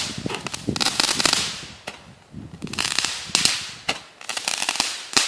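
Consumer fireworks going off: clusters of rapid crackling pops and sharp bangs, with a short lull about two seconds in before the crackling resumes.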